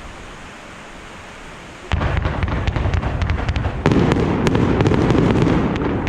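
Fireworks going off: a sudden loud bang about two seconds in, followed by dense crackling with many sharp pops, and a second loud burst about four seconds in.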